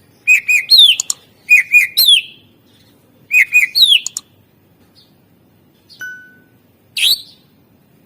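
Green leafbird (cucak ijo) singing: the same loud phrase three times, two quick notes and then a falling whistled sweep. A short single whistle and a sharp rising note follow near the end.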